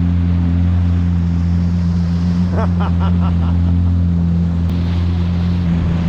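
Yamaha WaveRunner engine idling at a steady pitch, close to the microphone. A brief run of about five short, pitched chirps sounds about halfway through.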